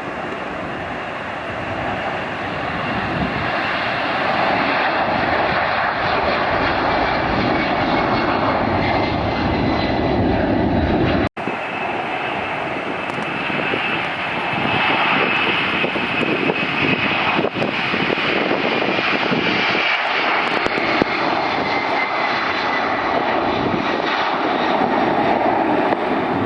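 Jet airliner engine noise, a loud steady rush with a high whine that slowly falls in pitch. It breaks off for an instant about eleven seconds in, then goes on.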